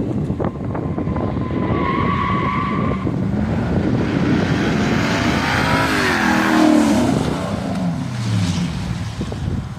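Straight-piped exhaust of a 2001 Lexus GS400's 4.0-litre V8, running loud and hard. There is a brief high squeal about two seconds in, and the engine's pitch falls from about six to eight and a half seconds in.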